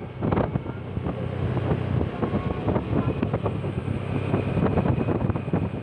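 Wind buffeting the microphone on a moving vehicle, in irregular gusts over a low, steady engine hum.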